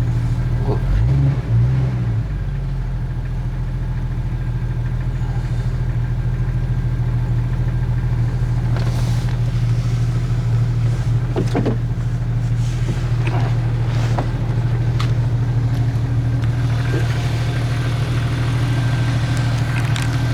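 Jeep TJ engine idling steadily. Its note wavers briefly about a second in, and a few light clicks and knocks sound over it later.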